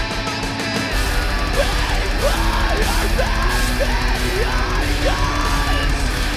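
Heavy rock band music: a guitar passage swells about a second in into the full band, with drums, bass and distorted guitars, and a lead line that bends up and down in pitch over and over.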